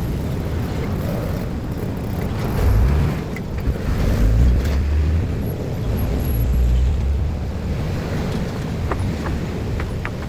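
Vehicles passing with a low engine and tyre rumble that swells several times, loudest about three and about four to five seconds in, with a few light clicks near the end.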